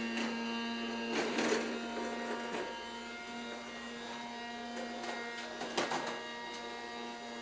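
Small vacuum cleaner motor running with a steady hum, with a few short scuffing noises about a second in and again near six seconds.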